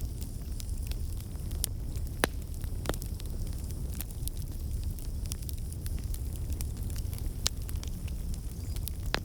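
Fireplace fire crackling: irregular sharp pops and snaps over a steady low rumble, with a few louder pops scattered through.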